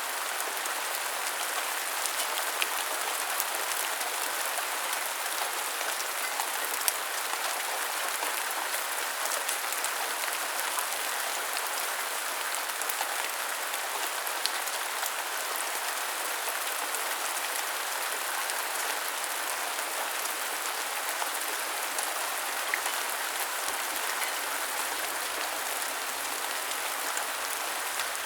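Steady rain falling: an even hiss with scattered small, sharper drop taps, a few of them louder.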